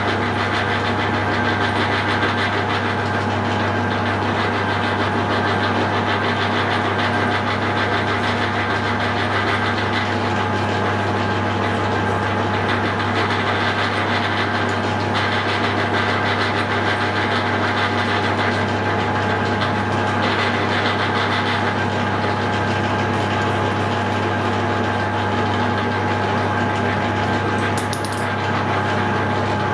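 Hare and Forbes AL335 metal lathe running steadily at low speed, about 220 rpm, with a low hum and a steady gear whine while a tailstock-mounted drill bores into the workpiece.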